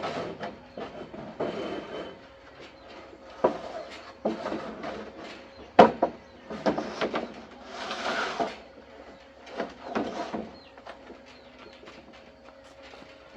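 Irregular knocks, clatters and scrapes of manual building work, with one sharp knock about six seconds in and a longer scrape a couple of seconds later.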